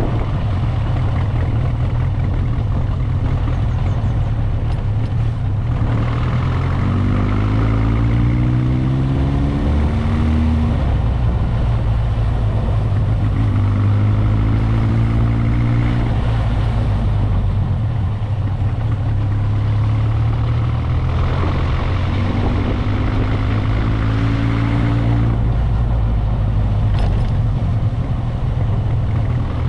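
Motorcycle engine running under way, with a steady low drone and wind and road noise; three times the engine note rises in pitch as the bike accelerates.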